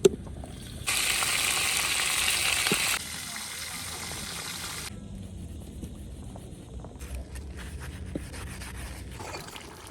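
Food frying in hot oil, a steady sizzle that is loudest for about two seconds near the start, then continues more quietly in short, abruptly cut stretches.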